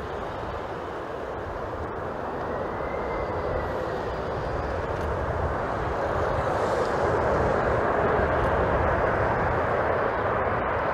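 Jet airliner approaching to land, its engine noise a steady rushing that grows gradually louder as it nears, with gusty wind rumbling on the microphone.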